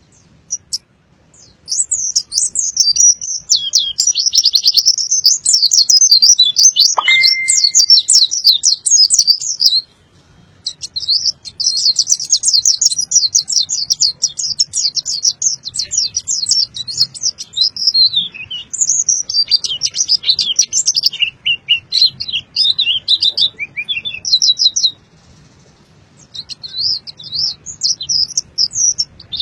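A pleci (white-eye, Zosterops) singing in long runs of rapid, high-pitched twittering, with brief pauses about ten seconds in and again near twenty-five seconds. There is one short, lower whistle about seven seconds in.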